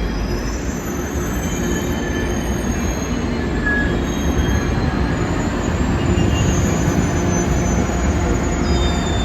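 Tri-Rail commuter train of Bombardier bi-level coaches rolling along the platform. There is a steady rumble of wheels on rail, with thin high-pitched wheel squeal coming and going.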